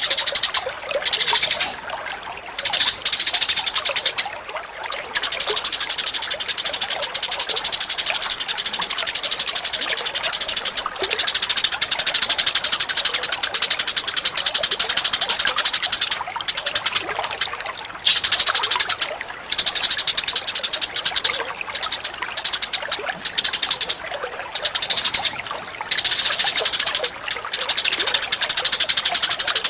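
Bird calls recorded for songbird training: long runs of very rapid, high-pitched chattering, broken by short pauses every few seconds.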